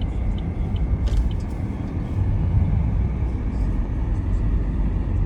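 Car driving, with a steady low road and tyre rumble heard inside the cabin. A few light ticks come in the first second or so.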